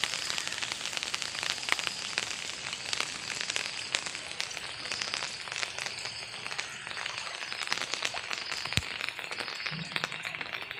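Rain falling onto muddy standing floodwater: a dense, steady patter of countless small drop clicks, with one sharper click about nine seconds in.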